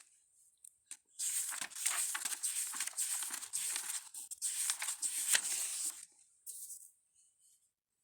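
Dry rustling and crinkling handling noise, continuous for about five seconds, starting about a second in.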